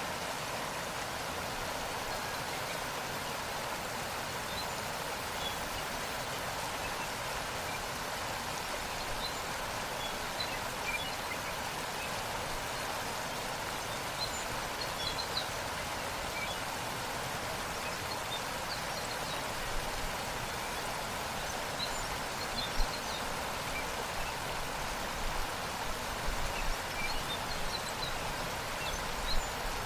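Waterfall water rushing steadily, with scattered faint high bird chirps and a few brief sharper splashes near the end.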